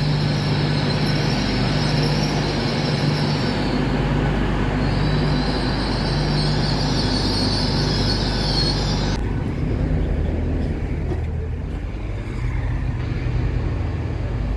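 Passenger train with a high, wavering wheel or brake squeal over a steady low rumble; the squeal stops abruptly about nine seconds in, leaving the low running hum.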